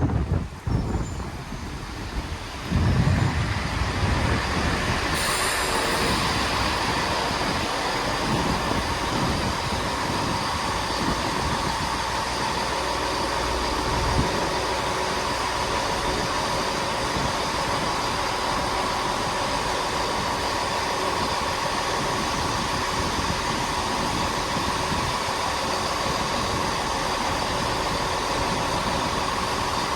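Class 166 Turbo diesel multiple unit drawing into the platform about three seconds in, then standing with its diesel engines idling in a steady hum.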